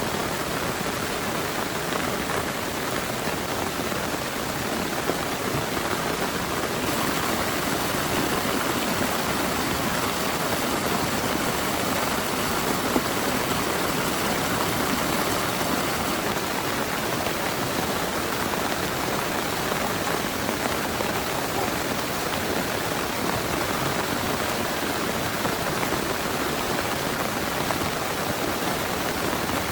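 Heavy rain pouring steadily, a dense even hiss of drops, a little stronger for several seconds about a quarter of the way in.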